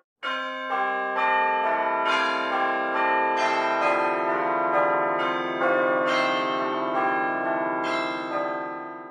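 Background music of slow, bell-like chiming notes that ring on and overlap, a new note coming in roughly every half second to second. It starts abruptly after a brief dropout and fades near the end.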